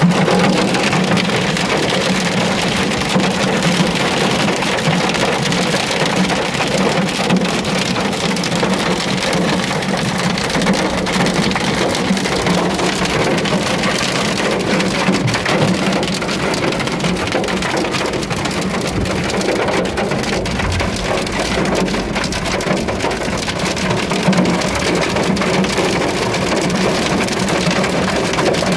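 Heavy rain mixed with hail drumming down, a dense, steady patter of countless small impacts over a constant low hum.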